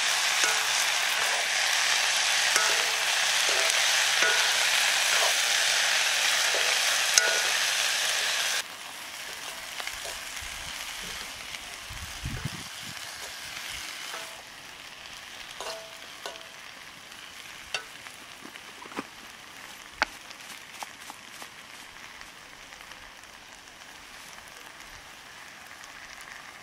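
Greens and potatoes frying in a black wok, sizzling loudly while a ladle stirs and scrapes the pan. About eight and a half seconds in, the sizzling drops suddenly to a quieter hiss, with occasional sharp clicks of the ladle against the wok.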